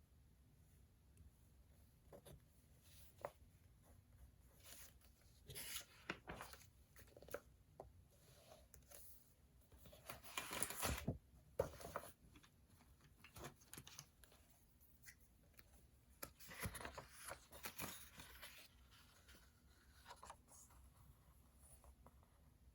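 Faint desk sounds of studying: a pen scratching on paper and papers being handled, with a louder paper rustle about ten seconds in and another near seventeen seconds.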